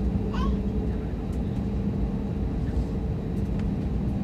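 Steady jet airliner cabin noise: engine and airflow rumble with a constant low hum.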